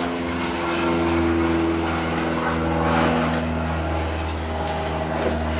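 A steady motor or engine hum, running evenly throughout.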